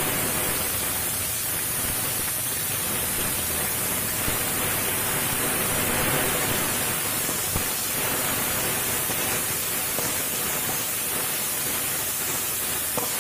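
Sliced onions and chillies sizzling steadily in hot oil in an iron kadai as they are stirred with a metal spatula, with a few sharp clicks of the spatula against the pan.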